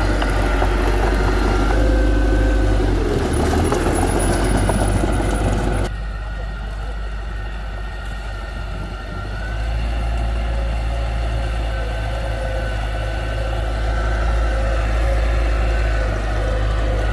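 Heavy diesel construction machinery running, a deep steady rumble with a few steady tones over it. The sound changes suddenly about six seconds in and gets duller.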